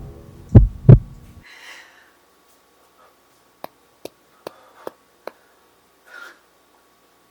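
Heartbeat sound effect for suspense: two heavy low thumps, a lub-dub, over a low drone that stops abruptly about a second and a half in. Then near quiet, broken by five faint sharp clicks about half a second apart and a brief soft rustle near the end.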